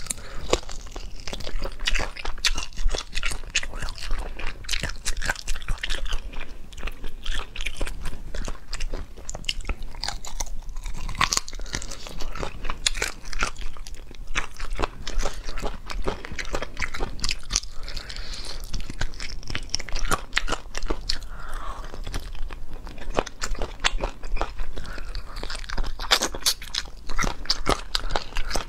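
Close-miked eating sounds: a person biting and chewing spicy braised chicken feet and meat pieces in chili oil, a continuous run of crunches and sharp clicks.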